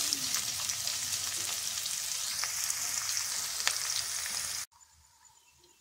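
Sliced onions sizzling in hot oil in a kadai, stirred with a wooden spatula, with a few sharp scrapes of the spatula on the pan; the onions are being softened. The sizzle cuts off suddenly about three-quarters of the way through, leaving near silence.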